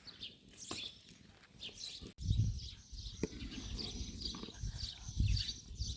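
Small birds chirping, with a low rumble setting in about two seconds in.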